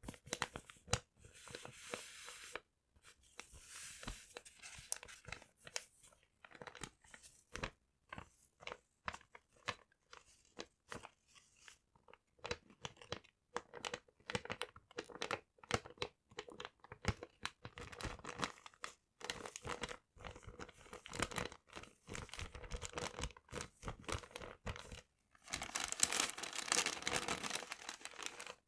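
Paper crinkled and crumpled close to the microphone, a rapid, irregular run of small crackles and crunches, with a longer, louder stretch of rustling near the end.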